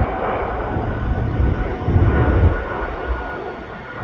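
Jet airliner engines rumbling, with a deep low rumble that fades away over the last second or so.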